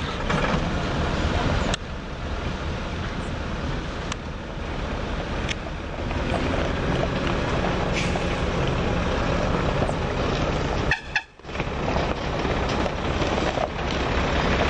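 Loaded iron-ore hopper wagons rolling away over the track, a steady wheel-on-rail rumble with scattered clicks from the wheels passing rail joints. The sound drops out briefly about eleven seconds in.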